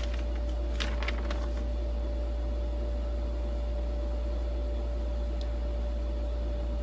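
Steady low hum with a thin, steady whine above it, the background noise of the room. A few light clicks in the first second and a half as packing is handled.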